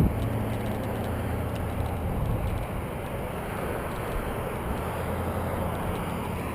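Steady rushing of wind on a GoPro microphone while riding a bicycle, with a low hum that fades out in the first couple of seconds.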